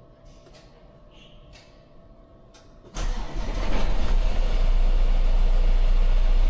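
Semi-truck diesel engine starting about three seconds in, then running steadily at idle to build up air brake pressure.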